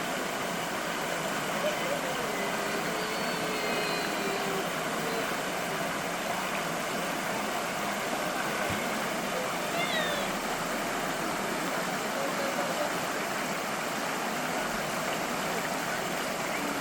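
A mountain valley stream running with a steady, even rush of water, with a few faint distant voices over it.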